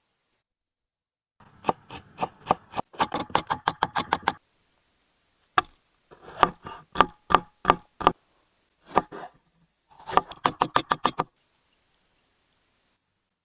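Knife chopping on a cutting board: runs of sharp knocks, some quick and some about two a second, with short pauses between the runs.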